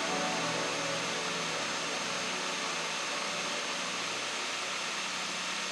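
Steady drone of a Cessna 172 Skyhawk's piston engine and propeller heard inside the cabin in flight, an even hissing drone with no change in power.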